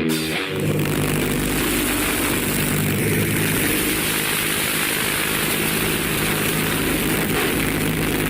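Aircraft piston engine running steadily at an even speed, with a deep drone under a broad hiss; it starts about half a second in.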